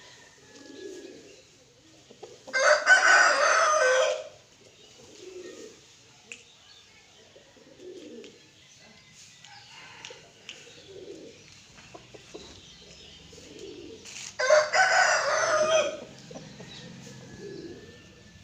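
Aseel rooster crowing twice, about twelve seconds apart, each crow lasting about a second and a half. Soft low calls come every second or two in between.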